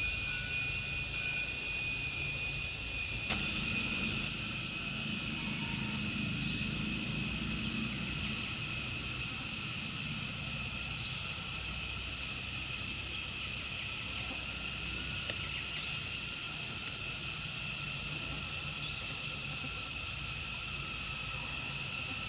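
Steady, high-pitched drone of insects, with a few light clinks in the first second or so.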